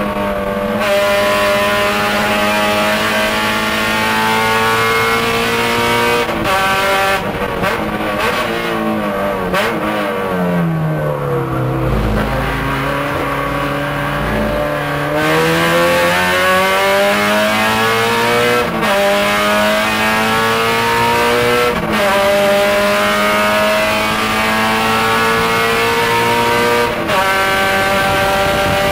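Race-prepped Honda Civic's K24A2 four-cylinder engine heard from inside the cabin, running at high revs. About a third of the way in the revs fall as the car slows and downshifts for a slow corner. From the middle the revs climb again, broken by upshifts about two-thirds of the way in and near the end.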